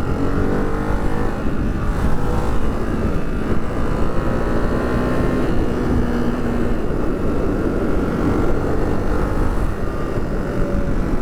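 Ducati Hypermotard 698 Mono's single-cylinder engine running while the bike is ridden, its pitch rising and falling a little, over steady wind noise.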